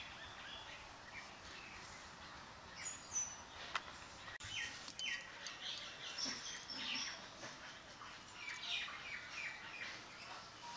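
Small birds chirping in many short, high calls, with a few sharp clicks about a third of the way in.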